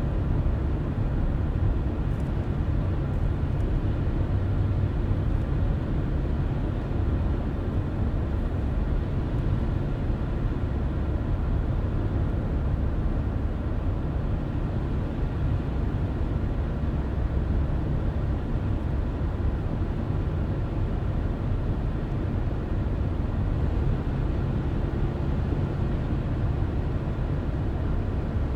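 A car driving at steady speed: an even, low rumble of road and engine noise that holds unchanged throughout, with a faint steady hum over it.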